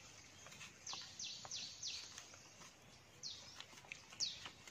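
A bird calling over and over: short, high chirps that drop in pitch, coming singly or in twos and threes.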